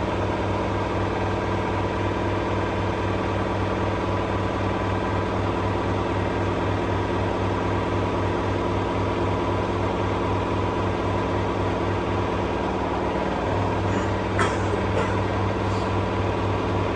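LG F1222TD washing machine spinning at full speed in its final spin: a steady hum, with a few light clicks near the end.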